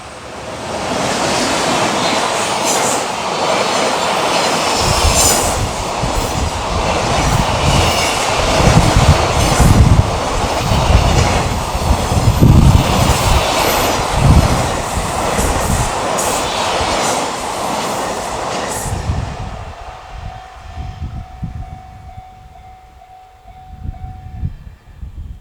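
EH500 electric locomotive hauling a long container freight train past at speed. The rumble builds about a second in, stays loud with irregular heavy thumps through the middle, and fades away after about 19 seconds.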